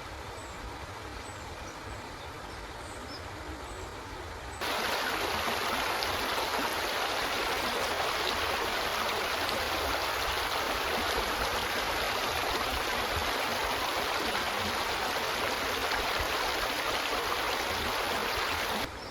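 Flowing river water rushing steadily. About four and a half seconds in it jumps abruptly to a much louder, fuller rush, which cuts back down just before the end. A few faint high chirps sound over the quieter opening part.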